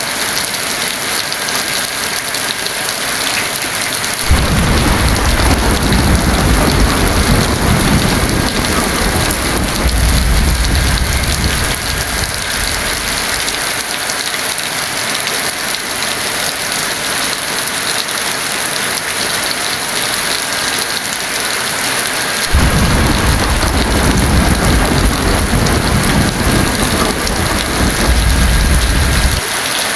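Heavy rain falling steadily, with two long low rolls of thunder: the first begins about four seconds in, the second about two-thirds of the way through, and each lasts several seconds.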